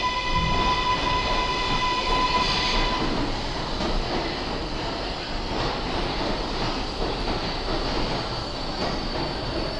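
New York City subway train of R142A cars on the 7 line rolling into a station, a set of high steady tones fading out about three seconds in, then an even rumble of wheels on rail.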